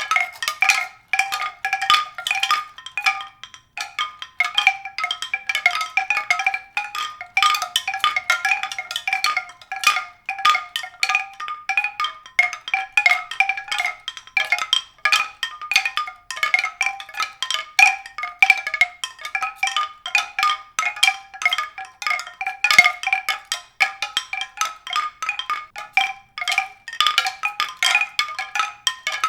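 Tuned percussion struck in a dense, continuous stream of quick notes on a few repeated pitches.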